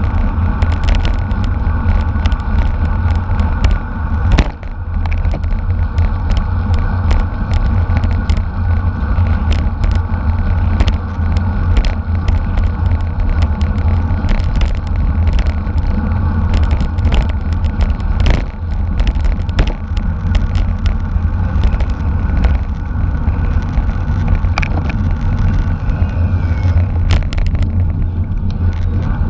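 Heavy, continuous wind rumble on the microphone of a camera riding along in a road bicycle race, mixed with road and bike noise and many short clicks.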